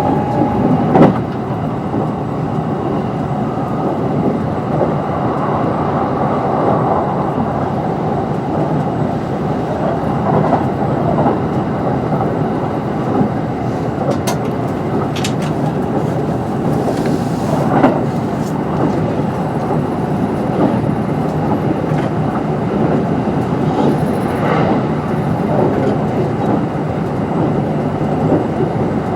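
Kintetsu 22600 series limited-express electric train running at speed, heard from inside the car: a steady rumble of wheels on rail. A sharp clack comes about a second in and another around two-thirds of the way through.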